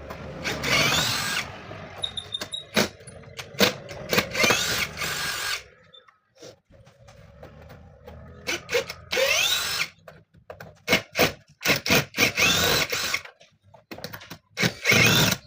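Power drill run in about five short bursts, its pitch rising as it spins up each time, with sharp clicks in between.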